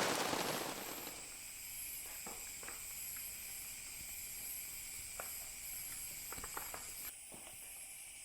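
Heavy rain fades out within the first second. After it comes a faint steady high hiss with a few soft scattered crackles and ticks.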